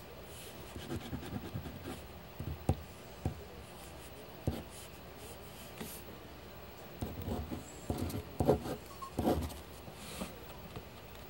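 Drawing on paper: short scratching strokes and scattered light taps, with a busier run of strokes about seven to nine and a half seconds in.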